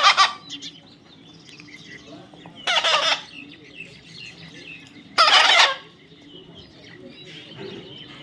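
A parrot squawking: three loud, harsh calls of about half a second each, roughly two and a half seconds apart, with faint bird chirps in between.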